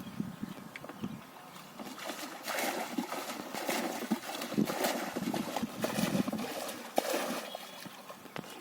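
Water splashing and sloshing in irregular bursts with small knocks, busiest through the middle, as hands and gear stir shallow wetland water while fishing.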